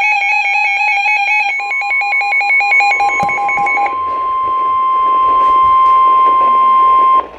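Weather radio alert: a fast-pulsing alarm beep with several overtones stops about four seconds in, while a single steady tone near 1 kHz, the 1050 Hz NOAA Weather Radio warning alarm tone, starts about a second and a half in, grows slightly louder and cuts off suddenly just before the end. This tone comes before a National Weather Service severe thunderstorm warning message.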